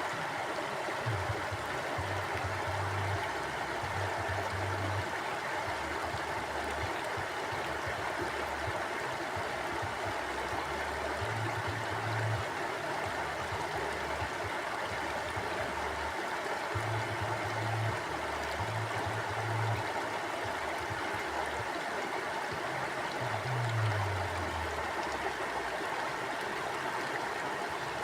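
Mountain stream flowing over rocks: a steady rush of water. Low rumbles come and go underneath it.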